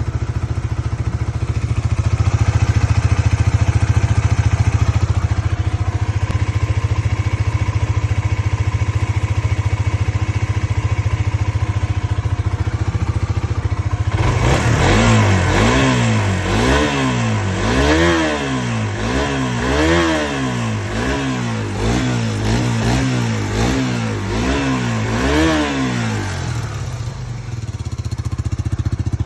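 Suzuki GSX-R125 single-cylinder four-stroke engine idling steadily. About halfway through it is blipped up and down about a dozen times, roughly once a second, then settles back to idle near the end.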